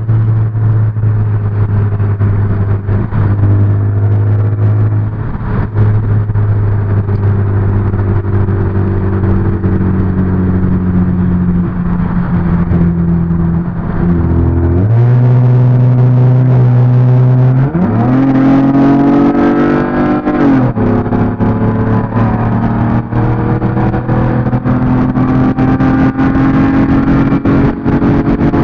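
Car engine heard from inside the car while driving, running steadily. A little past halfway its note drops, then climbs in pitch over about two seconds as the car accelerates, before settling back to a steady pitch.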